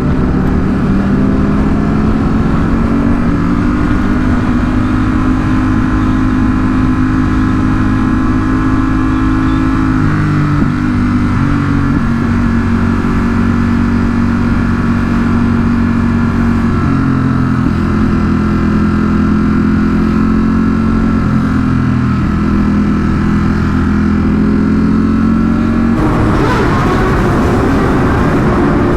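Sport motorcycle engine running at steady cruising revs with wind rush on the helmet microphone. The engine note steps in pitch a couple of times, and the wind noise grows louder near the end.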